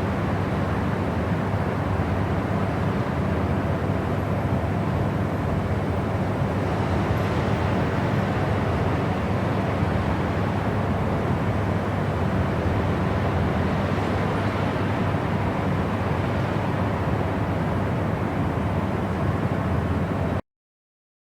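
Steady white-noise sleep sound: an even hiss with most of its weight in the low range. It cuts out to complete silence for about a second near the end.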